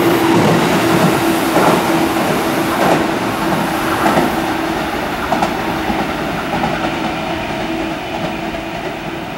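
Tobu 10050 series ten-car train passing through a station, with wheels clacking over rail joints. The sound slowly fades as the rear of the train moves away.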